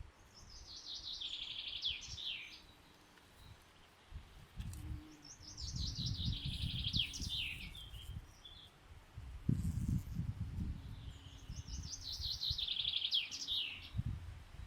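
A songbird singing the same short, fast phrase three times, about five seconds apart, each phrase a rapid run of notes falling in pitch. A low fluctuating rumble sits underneath between about four seconds in and near the end.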